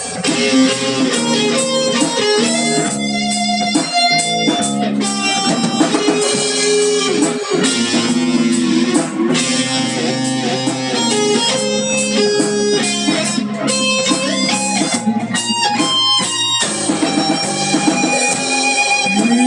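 Instrumental blues passage led by plucked guitar, with a continuous run of picked notes and no singing.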